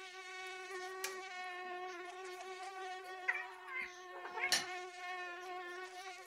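A mosquito's whine: one steady, high-pitched buzz of its wingbeat that holds an even pitch throughout. A sharp tap about a second in, and short scuffles and another tap around four and a half seconds in, break across it.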